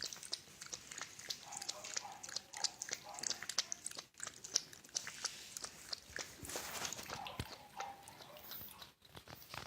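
French bulldog making quick, irregular clicking and crunching mouth noises, like chewing, with a couple of brief faint whines.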